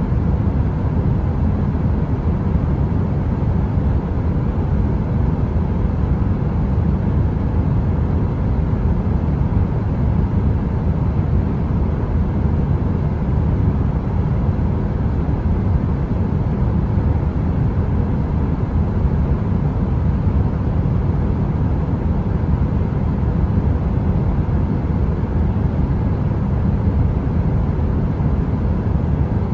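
Heater running: a steady, deep rushing noise, mostly low rumble, with a faint even hum above it and no crackle.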